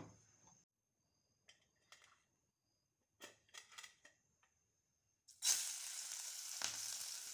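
A few faint clinks, then sizzling begins suddenly about five seconds in and continues steadily as hot oil in an iron frying pan starts to fry.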